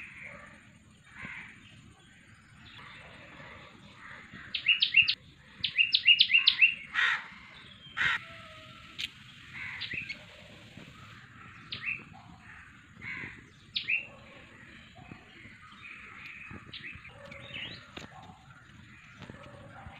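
Birds calling and chirping. About five seconds in comes a quick run of loud, sharp repeated chirps, followed by a couple of harsher calls, with scattered chirps after that.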